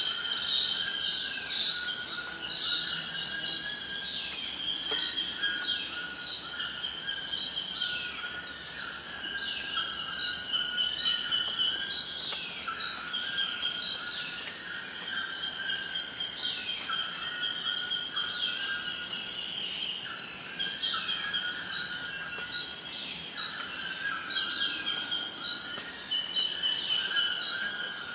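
Rainforest ambience: a steady high-pitched insect drone, with a bird calling over and over, a call every second or two.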